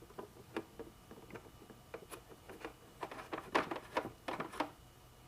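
A cloth wiping and scrubbing a painted motorcycle trunk panel clean, a run of short, uneven rubbing strokes that grow busier near the end.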